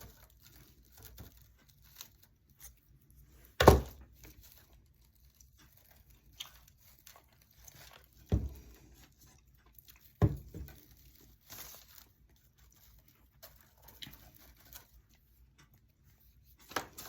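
Craft handling at a table: light rustling of dry raffia with a few sharp knocks of things being set down, the loudest about four seconds in and two more near eight and ten seconds.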